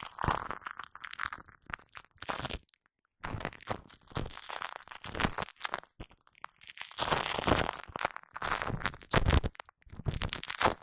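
Shaving foam being squished and worked close to a microphone, making sticky, crackling squelches in irregular bursts with a brief pause about three seconds in.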